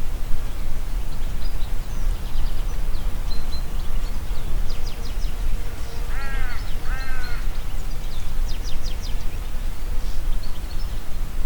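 Wind blowing through forest trees, a steady rush with a heavy low rumble. Small birds give quick high chirping trills now and then, and a larger bird gives two harsh calls a little past halfway.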